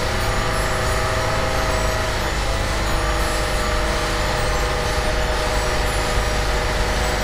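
Speedboat engine running steadily under way, a continuous drone with a low rumble.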